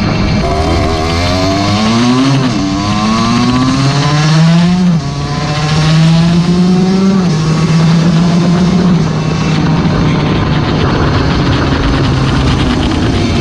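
Motorcycle engine accelerating, its pitch climbing, dropping at a gear change about two and a half seconds in, climbing again until another shift about five seconds in, then running steadier, with heavy wind noise on the bike-mounted camera's microphone.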